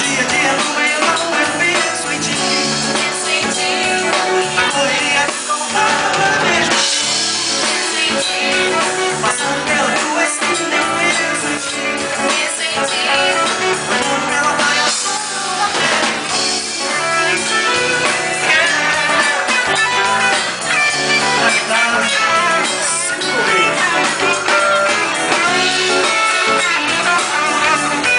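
A band playing the song with guitar, possibly with sung lines over it.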